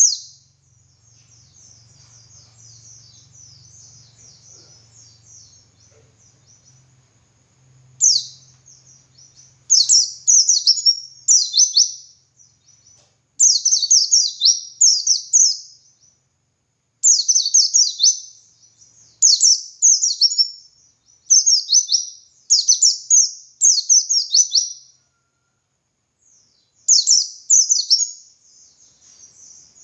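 White-eye (pleci) singing in a high pitch. Soft, continuous twittering for the first several seconds gives way, about eight seconds in, to a run of loud, rapid song phrases a little more than one a second, with a short pause near the end.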